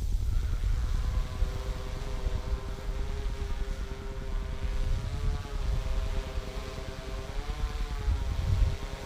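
Yuneec quadcopter in flight, its motors and propellers giving a steady hum whose pitch drifts up and down as the throttle changes, over a low rumble.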